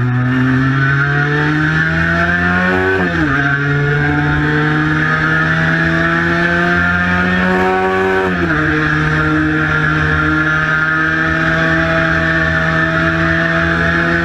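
Cagiva Mito 125's single-cylinder two-stroke engine pulling hard under acceleration. Its pitch climbs and then drops sharply at an upshift about three seconds in, and again at another upshift about eight seconds in. It then holds a steady high pitch at speed, with a low rush of wind and road noise underneath.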